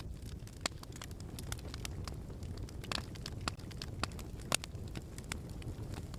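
Fire crackling in a fireplace: irregular sharp pops and snaps over a steady low rumble, the loudest pop about four and a half seconds in.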